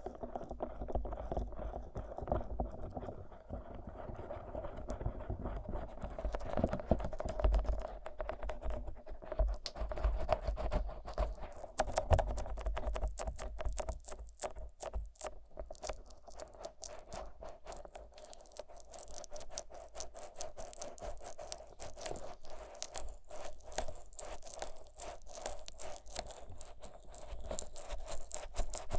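Fingers rubbing thick Vaseline over the silicone ears of a 3Dio binaural microphone: close, irregular sticky rubbing and scraping strokes.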